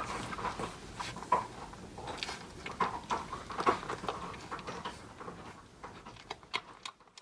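Akita Inu puppies scrabbling and rustling as they clamber over their mother, a busy patter of little scratches and scuffs with a few short squeaks. It fades away at the end.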